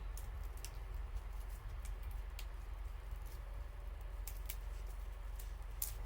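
Wood bonfire burning, crackling with irregular sharp pops and snaps over a steady low rumble, the sharpest pop just before the end.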